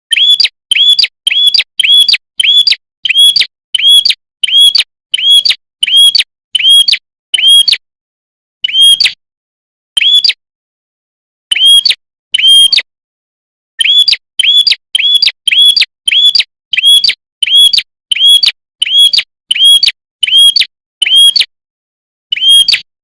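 Prinia (prenjak) lure call: a sharp chirp repeated about twice a second in runs, broken by a few short pauses.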